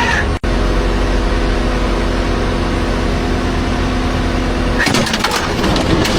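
A car engine running steadily at idle, after a brief dropout just after the start. About five seconds in, a rougher, noisier sound takes over.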